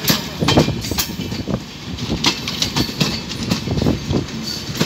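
Maitree Express passenger coaches rolling slowly past, their wheels clattering over the track in a run of irregular knocks and clanks over a steady rumble.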